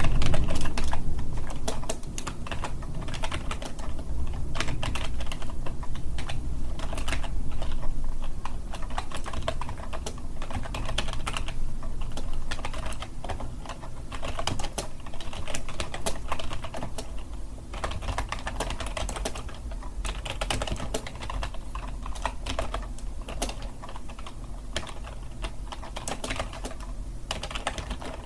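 Typing on a computer keyboard: a fast, uneven run of key clicks with short pauses, and a heavier low thump right at the start.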